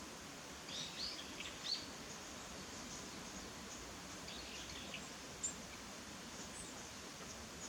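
A small bird calling: short high chirps in two brief clusters, about a second in and again around four seconds, over a steady background hiss.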